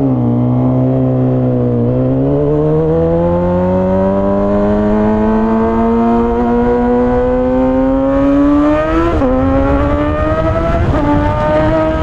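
Suzuki GSX-R600 (K6) inline-four through a straight-piped M4 exhaust with no catalytic converter, accelerating: the engine note climbs steadily, with short drops at gear changes about two seconds in, around nine seconds and around eleven seconds, then holds steady near the end.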